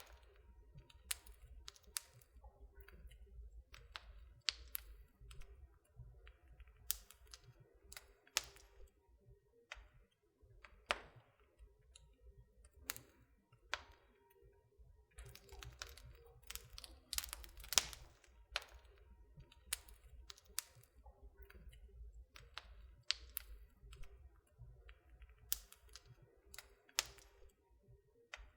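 Wood fire crackling in a fireplace: irregular sharp pops and snaps, sometimes several a second, over a faint low rumble.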